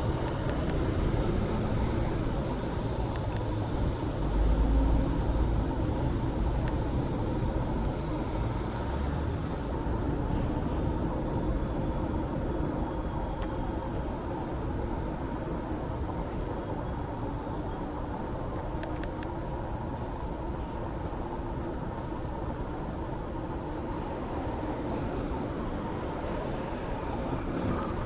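Steady road-traffic noise heard from a moving bicycle, a continuous low rumble that swells briefly about four to five seconds in, with a few faint ticks.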